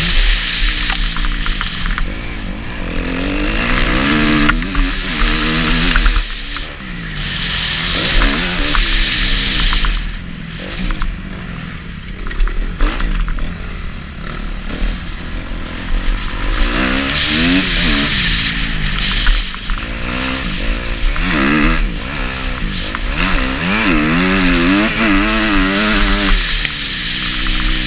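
Kawasaki KX250F motocross bike's four-stroke single-cylinder engine running hard, its revs climbing and dropping over and over as the throttle is worked, under a steady rushing noise.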